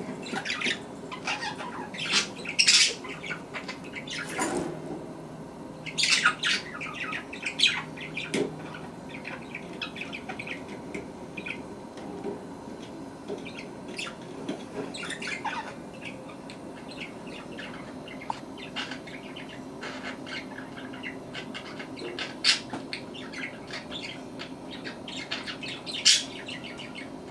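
Budgerigars squeaking and squawking in rapid, irregular bursts of short high-pitched calls, with a few louder squawks standing out.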